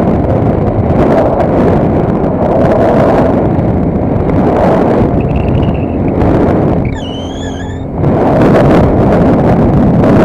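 Wind buffeting the microphone while riding, a loud, steady rush. It drops briefly about seven seconds in, when a short high wavering whistle is heard.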